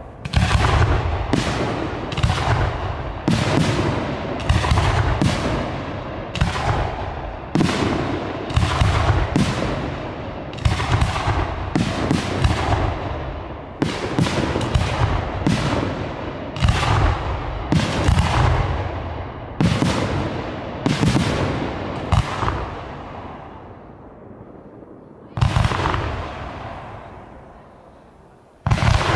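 Professional fireworks display: aerial bursts going off in a rapid series of loud bangs about one a second, each trailing off in a rumbling echo. After about 22 seconds the firing pauses, with one more bang a few seconds later and another near the end.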